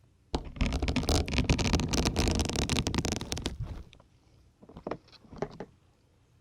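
Syringe needles pushed into a dense grey sponge close to the microphone: a crackling scrape lasting about three seconds, then a few short crunches.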